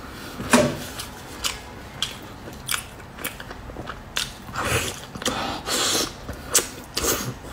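Close-up eating sounds of a person biting tender braised meat off the bone and chewing it, with irregular wet smacks and bites, the sharpest about half a second in.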